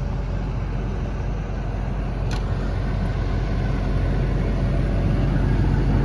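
Cummins diesel engine of an XCMG XE210CU excavator running steadily, growing slightly louder toward the end.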